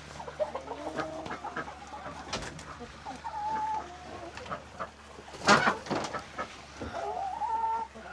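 Chickens on the roost at night making soft, drawn-out calls, several held for about a second. A loud sharp knock or click comes about five and a half seconds in.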